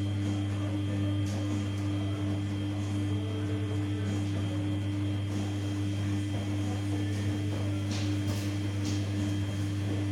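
Samsung P1271 front-loading washing machine running mid-cycle with a steady electric hum and level tones throughout.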